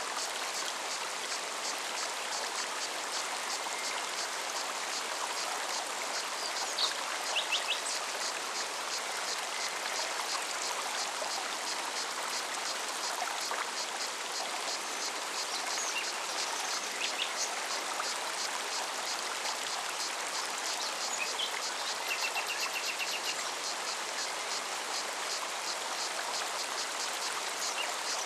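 Forest stream running steadily, with a cicada pulsing in an even, fast rhythm high above the water and a few short bird calls, one a brief trill about three-quarters of the way through.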